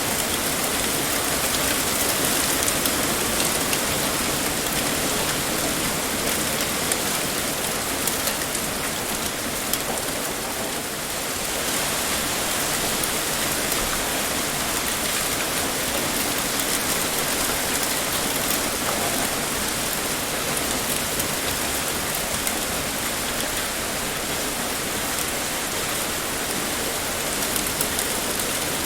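Heavy rain pouring steadily, a dense even hiss of many drops striking a surface, easing slightly for a moment about ten seconds in.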